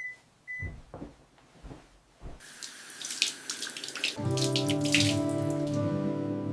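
Water running from a tap into a sink, starting about two seconds in after a few soft knocks. Gentle music comes in over it partway through.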